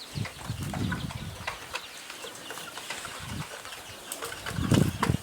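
Farm birds, pigeons and chickens, flapping their wings in short flurries, with the loudest flurry near the end and faint clicks in between.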